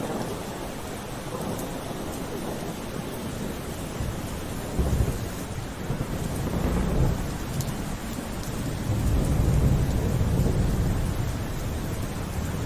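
Rain falling steadily, with low rolls of thunder that swell about five seconds in and again in the second half.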